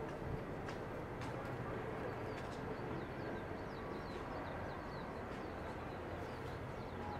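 Outdoor ambience: a steady low rumble with small birds chirping faintly in quick runs through the middle.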